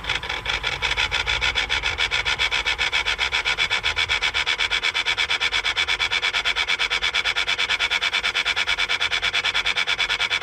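Unidentified noise from the engine of a 2014 Jeep Grand Cherokee EcoDiesel V6, with the ignition in run mode and the engine not running: a steady, even, rapidly pulsing rasp of several pulses a second.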